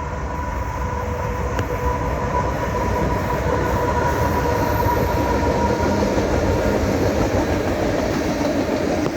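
A train running past on the rails, getting louder over the first few seconds and then holding steady, with a low rumble and a steady high whine.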